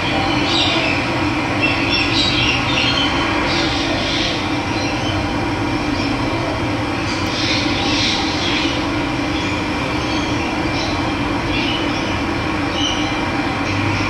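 Running water with a steady rush, and birds chirping in short bursts now and then over it, most around the first few seconds and again about halfway through.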